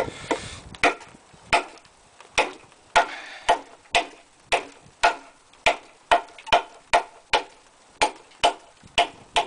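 A heavy blade chopping repeatedly into a log of frozen maple: a steady run of sharp wooden chops, about two a second.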